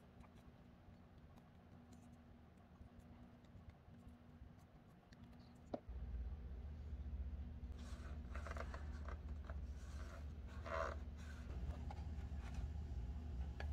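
Paper being handled at a craft table: one click a little before halfway, then soft rustling and scraping strokes of paper from about eight seconds in. A low rumble begins about six seconds in and grows slightly louder toward the end.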